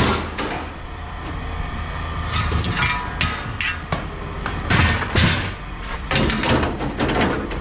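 Scrap aluminum clattering and knocking in bursts as pieces are handled and dropped, over a steady low engine hum.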